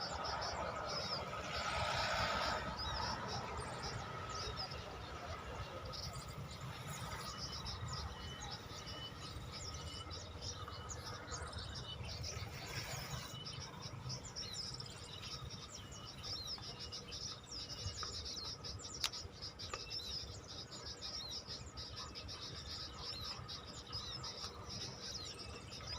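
Many small birds chirping and twittering, some at a distance, over a steady trill of insects.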